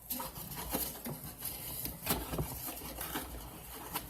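Scrubbing and light scraping around a refrigerator's condenser fan motor: soft, irregular rubs and small clicks over a low steady hum.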